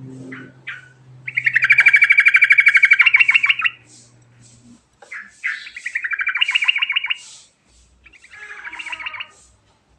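Yellow-vented bulbul (trucukan) singing in three rolling phrases of fast, chattering notes, the first the longest and loudest.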